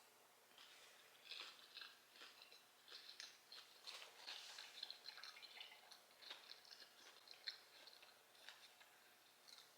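Faint crunchy chewing of a crisp-crusted pork chop, with irregular crackling crunches that die down near the end.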